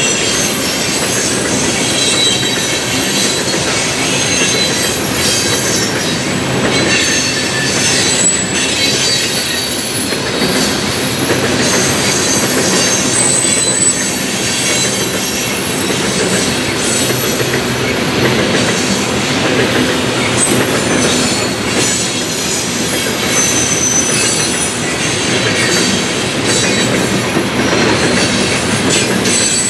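CSX coal train's cars rolling steadily past, wheels on the rails with thin, high-pitched flange squeals that come and go.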